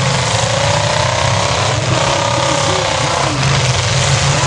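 Several V8 demolition-derby cars' engines running and revving together: a steady, loud low rumble with rising and falling engine notes over it.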